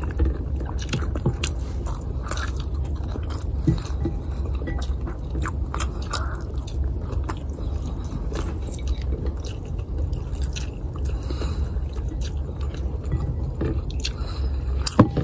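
Close-miked chewing of garlic fried rice and ham, with irregular small clicks throughout, over a steady low hum.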